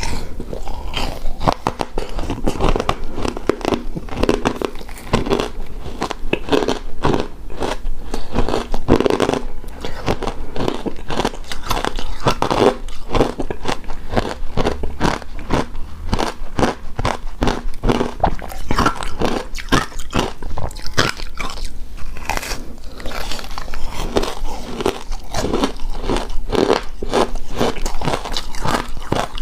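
Close-miked chewing and crunching of icy shaved-ice dessert, a dense run of crisp crackles and bites throughout.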